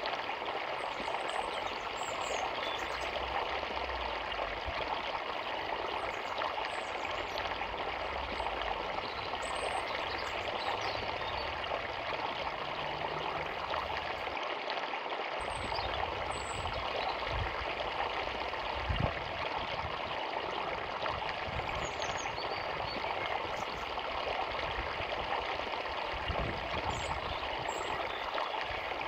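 Small forest river running with a steady rush of water. Short high bird chirps come through now and then.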